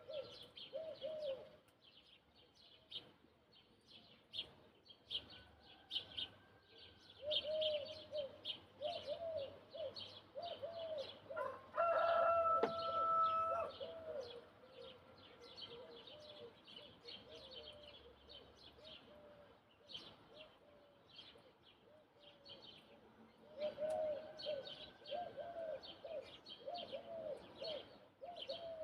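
Morning birdsong: small birds chirping throughout, with runs of repeated lower calls. A rooster crows once, the loudest sound, about twelve seconds in.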